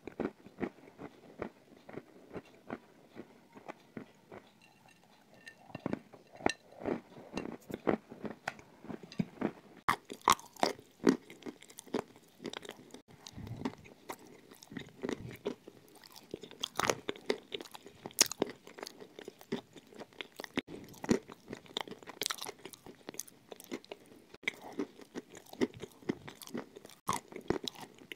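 Close-miked biting and chewing of dry, brittle edible clay: irregular sharp crunches, sparse at first and coming thick and fast from about six seconds in.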